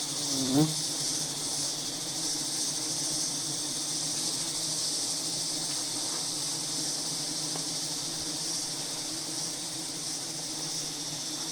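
Steady insect sound: a low, even hum of swarming honeybees under a continuous high chirring of insects.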